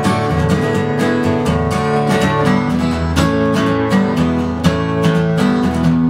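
Acoustic guitar strummed in a steady rhythm, playing the instrumental introduction to a folk song before the voice comes in.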